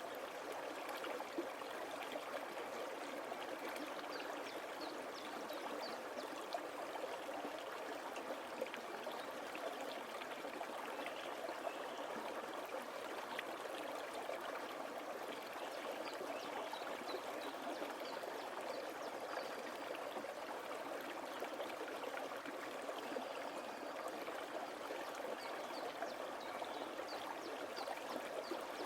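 Forest stream flowing steadily, a constant trickling rush of water.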